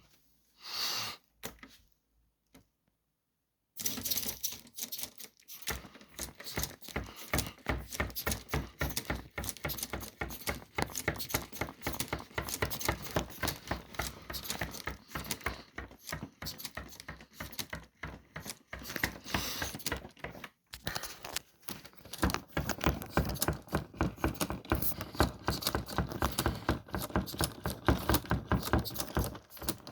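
Lego pneumatic engine running: a fast, even clatter of its pistons and valves, starting about four seconds in after a few scattered clicks, with a brief break about two-thirds of the way through and louder after it.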